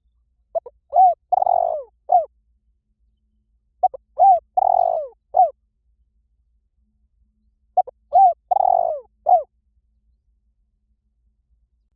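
Spotted dove cooing: three repeated phrases, each a few short coos and one longer, rougher note, coming about every four seconds. It is the male's territorial call, used as a lure call to draw wild doves.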